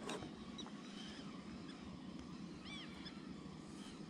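Quiet outdoor ambience: a bird calls a few times in short, arching chirps, the clearest about two and a half seconds in, over a low steady rumble.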